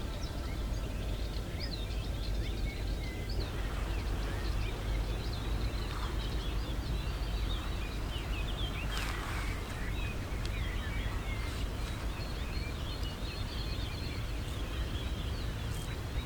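Small birds chirping and calling in many short, quick notes over a steady low rumble.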